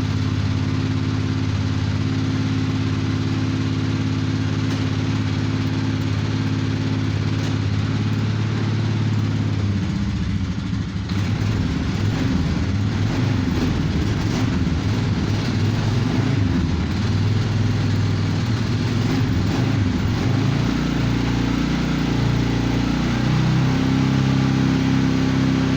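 A cold ATV engine running at a steady idle. About ten seconds in, its speed starts to waver up and down unevenly, then settles back to a steady run near the end.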